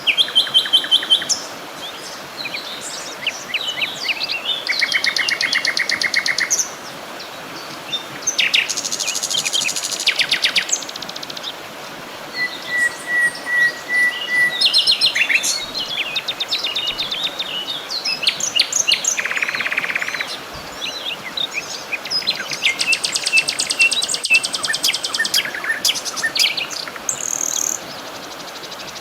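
Several songbirds singing and calling at once: overlapping rapid trills and chirps, with one run of even notes repeated several times a second, over a soft steady background hiss.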